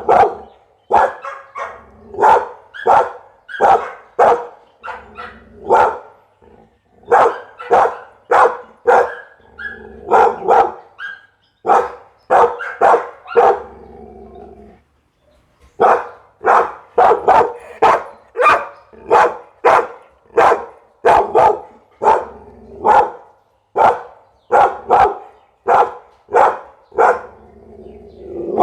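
Pit bull barking over and over, about one or two barks a second, with a short pause about halfway through.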